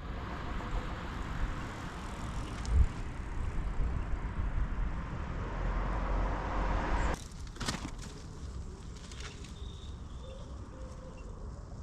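Wind rumble and road noise from riding a bicycle, cutting off abruptly about seven seconds in, followed by a couple of clicks and a quieter, steadier background.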